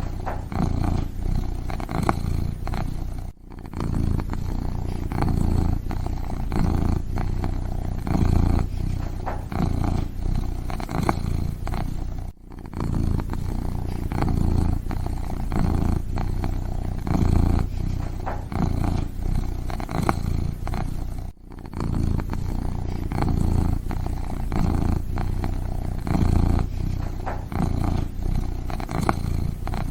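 Kitten purring close to the microphone: a steady low rumble that swells and eases in uneven pulses. It cuts out briefly three times, about every nine seconds.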